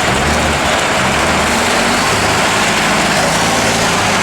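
Unimog truck's diesel engine running, its pitch shifting a couple of times, over a steady rushing noise.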